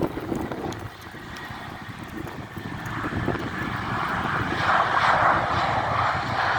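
Airbus A320 airliner's jet engines, a rushing rumble that grows steadily louder over several seconds as the aircraft comes closer.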